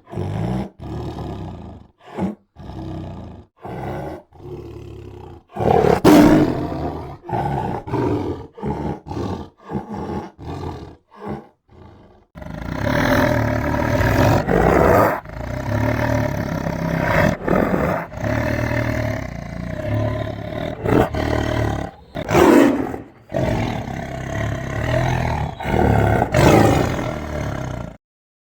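Tiger roaring and growling: short separate growls for the first twelve seconds, then a long, almost unbroken run of loud roars and snarling growls.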